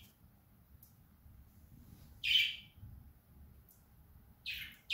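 A small bird chirping: short high calls, about one every two seconds, with two close together near the end.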